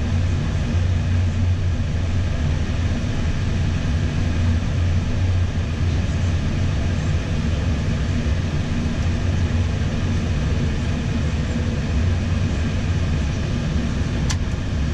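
Steady Airbus A320 flight-deck noise while taxiing after landing: the engines at idle under a strong low hum and the whir of cockpit ventilation, unchanging throughout. A single sharp click near the end.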